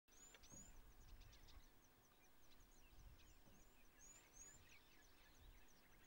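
Faint, high-pitched chirping of small birds: many short calls in quick runs, with a few sweeping calls about half a second in and again about four seconds in, over a faint low rumble.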